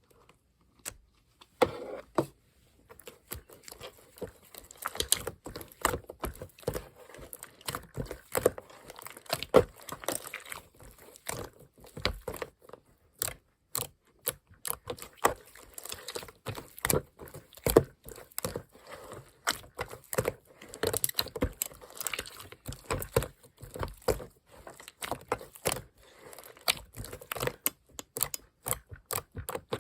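Mint-chocolate slime being squished and pressed by hand, making rapid, irregular clicks and pops, with wet crackles between them.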